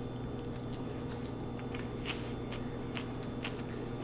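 Close-miked chewing and soft wet mouth clicks of someone eating lo mein noodles, scattered irregularly over a steady low hum.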